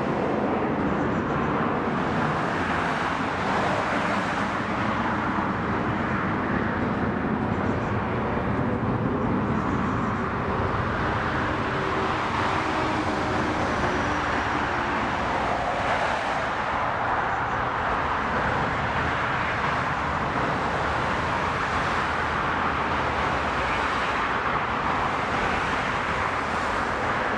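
Airliner jet engines: a steady, even rush of noise that does not rise or fall.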